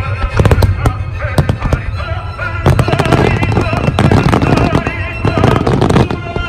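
Fireworks display: many aerial shells bursting in quick succession with crackling, densest in the middle, while music plays alongside.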